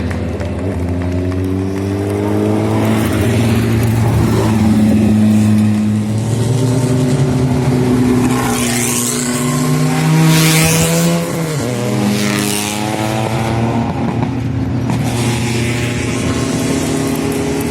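Race car engine at full song on a hillclimb, revving up and down through the gears, with a quick drop in pitch about eleven seconds in as it shifts or lifts.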